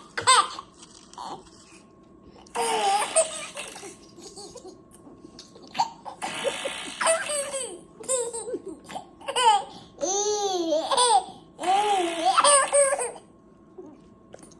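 Baby laughing in repeated bouts of high squeals and giggles whose pitch bends up and down, taking turns with short noisy bursts about a second long, three times.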